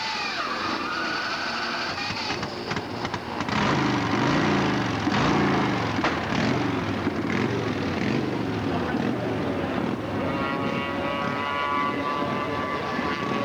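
Racing motorcycle engines on the circuit, revving up and down with rising and falling pitch as bikes pass and change gear, with a steadier engine note coming in near the end.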